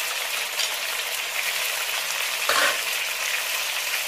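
Chicken and onions frying in oil in an aluminium pot, a steady sizzle, as ginger-garlic paste is added to the pan. A short, louder noise comes about two and a half seconds in.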